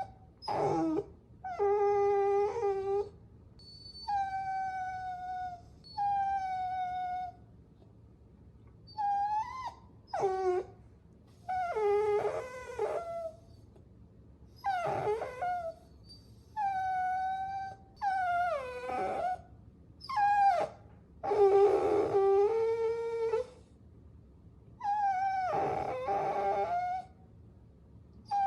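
Puppy whining: about a dozen high-pitched cries, each half a second to two seconds long, many sliding up and then down in pitch, with short pauses between them.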